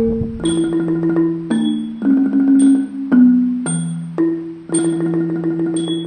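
Thai classical instrumental music: ranat xylophones and a khong wong yai gong circle playing a melody with rapid repeated strikes, the pitched notes ringing and changing every half second or so.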